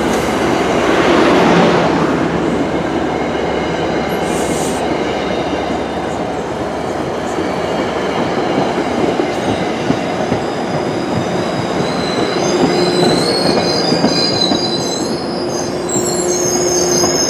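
MBTA commuter rail train rolling past with a steady rumble of wheels on the rails. From about twelve seconds in, thin high-pitched wheel squeal rises over the rumble.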